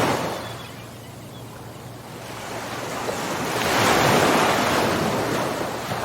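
Ocean surf: one wave washes out at the start, then after a short lull the next wave builds and breaks about four seconds in before easing off.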